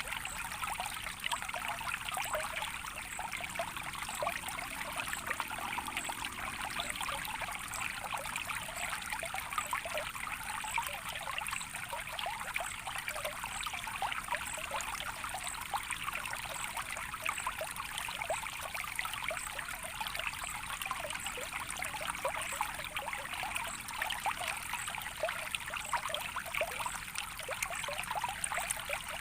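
Small stream of water trickling and bubbling steadily, with many small splashes.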